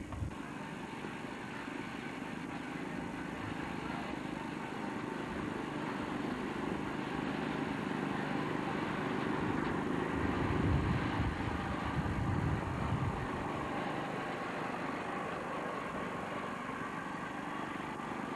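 A vehicle's engine running with a steady rumble that grows louder, peaks about ten to thirteen seconds in, then eases off.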